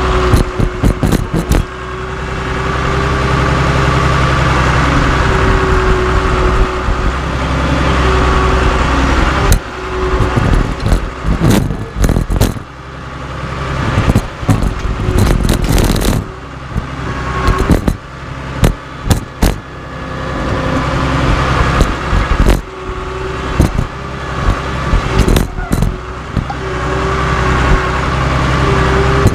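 Cat D3C LGP bulldozer's diesel engine running steadily, with many sharp bangs and cracks scattered through, as steel wheels are crushed. The knocks come thickest in the middle stretch.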